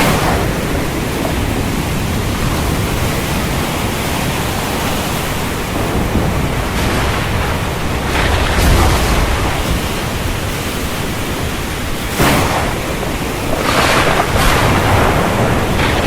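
Stormy sea: wind and heavy surf rushing steadily, with several louder surges of breaking waves, the sharpest about three-quarters of the way through.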